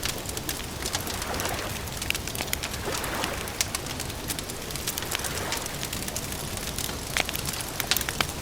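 Campfire crackling with frequent sharp pops and snaps over a steady hiss, with a bird calling softly in the background.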